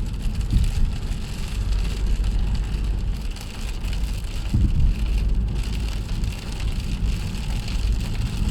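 Heavy rain drumming on a moving car's roof and windscreen, heard inside the cabin over the low rumble of the engine and tyres on the wet road, with a couple of brief low thumps.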